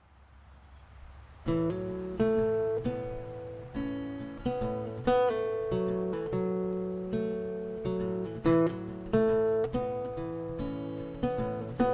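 Acoustic guitar intro, chords strummed and picked, starting about a second and a half in after a faint low hum; each chord rings on until the next.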